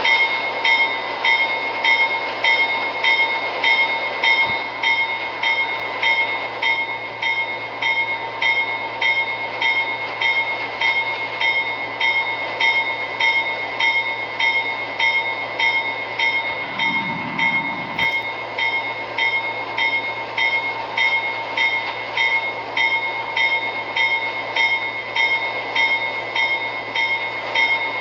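Locomotive bell ringing steadily, about one and a half strikes a second, with a steady background rumble beneath it.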